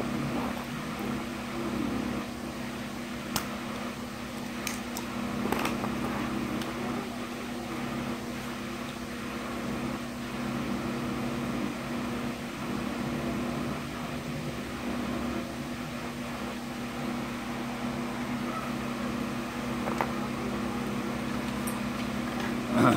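Steady mechanical hum of a small fan or motor, with a few faint clicks and ticks in between.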